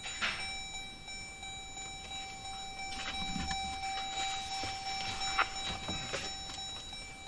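Continuous electronic tone, a steady high-pitched beep with no breaks, sounding from the Jeep Grand Cherokee with the ignition just switched on and a plug-in tuner connected. Scattered clicks and light knocks sound over it.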